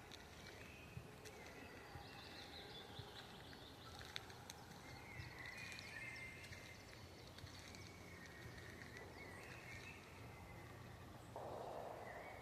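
Faint forest ambience with distant songbirds calling in wavering phrases that come and go. A few soft ticks sound through it, and a brief hiss rises near the end.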